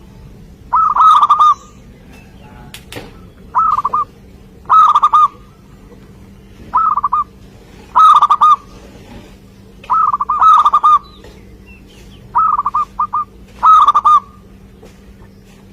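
Zebra dove (perkutut) cooing: short, rapid trilled coo phrases repeated every second or two, with one sharp click about three seconds in.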